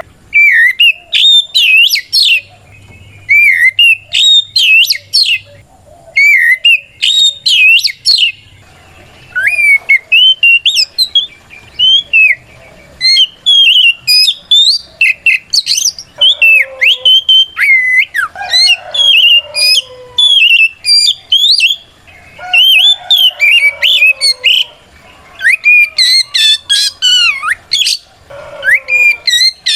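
Oriental magpie-robin (kacer) singing a loud, fast string of varied whistled notes in dense phrases with short pauses, a full-voiced 'ngeplong' challenge song that calls out a rival male.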